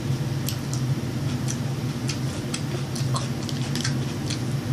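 Irregular, sharp wet clicks of a mouth chewing KFC fried chicken, over a steady low hum.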